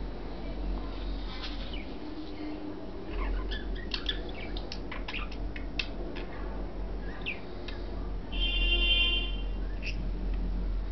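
Budgerigars chirping and chattering, with a run of quick clicks and short chirps in the middle and one louder, buzzy call near the end.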